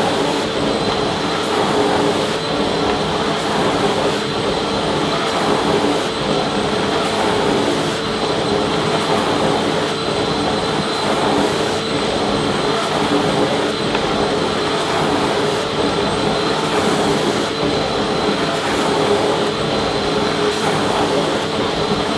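Vacuum cleaner running continuously, a steady motor whine with a constant rushing air noise.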